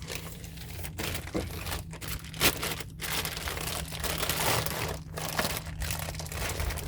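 Crinkling and rustling of packaging being handled and torn open, an irregular crackle over a low steady hum.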